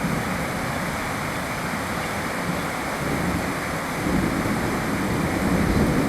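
Steady rain, with a low rumble that swells from about four seconds in.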